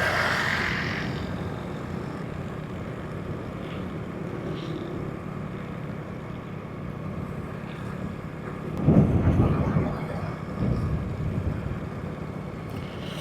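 Honda Pridor 100cc single-cylinder four-stroke motorcycle running steadily on the road, with wind noise on the camera microphone. The sound swells louder about nine seconds in and again briefly a little later.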